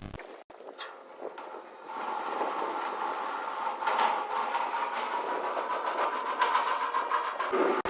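Electric arc welding on a concrete mixer joint: a steady crackling hiss of rapid fine crackles, starting about two seconds in after a fainter hiss.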